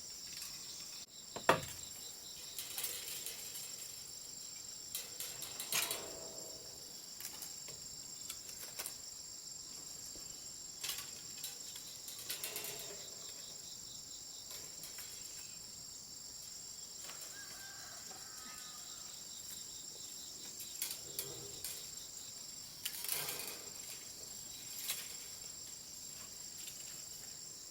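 Steady high-pitched chorus of insects, with scattered short knocks and rustles of handling; a sharp knock about a second and a half in is the loudest sound.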